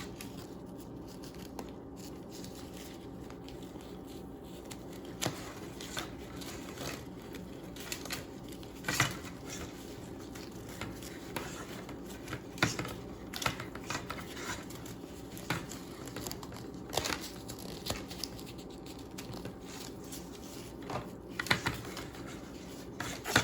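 Rustling and crinkling of an elastic bandage being wrapped tight over a fibreglass repair wrap, with scattered sharp crackles, over a steady low hum.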